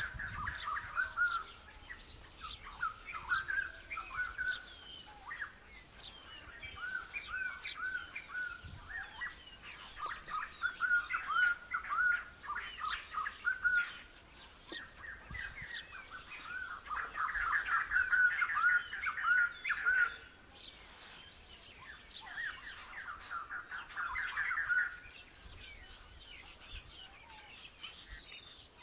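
Birds singing: repeated phrases of short, quick chirped notes that come in bursts of a few seconds, with fainter higher chirps among them. The song dies away near the end.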